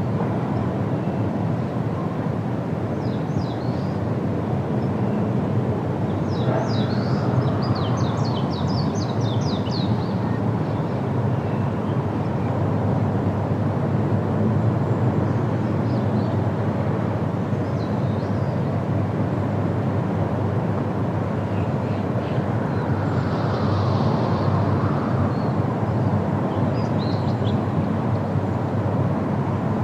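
Steady wind rushing through forest trees, with small birds chirping now and then, including a quick run of chirps about a third of the way in.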